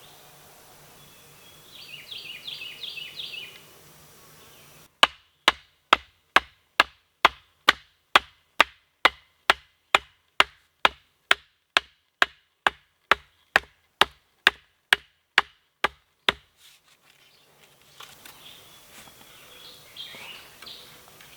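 A tool striking wood again and again in an even rhythm, a little over two sharp blows a second for about eleven seconds. A bird trills briefly before and after the blows.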